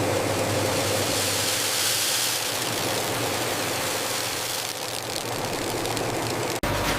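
Steady machinery noise with a low hum; it breaks off abruptly near the end and a different steady hum takes over.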